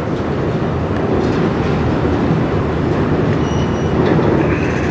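Freight cars of a slowing CN manifest train rolling past, a steady rumble of wheels on the rails. A faint, brief high squeal comes in about three and a half seconds in.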